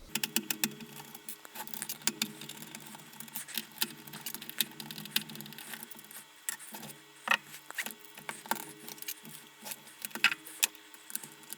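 Irregular clicks, knocks and light rattles of plastic parts and wires being handled as a lead-acid battery is taken out of a camping lantern and an 18650 lithium-ion battery pack is fitted in its place, over a faint steady low hum.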